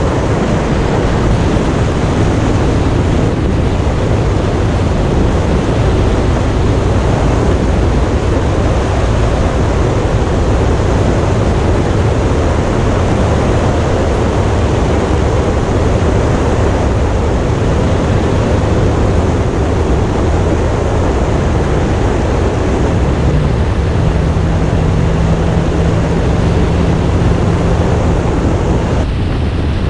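Motorcycle riding at speed: a steady engine rumble under heavy wind noise on the microphone. A steady engine tone comes through for a few seconds near the end.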